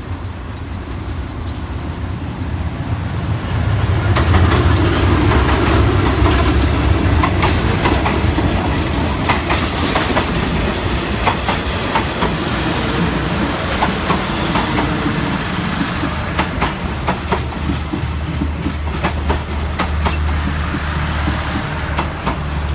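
A diesel-hauled passenger train passing close by: the locomotive's engine rumbles loudest from about four seconds in, then the coaches' wheels clack irregularly over the rail joints as the carriages roll past.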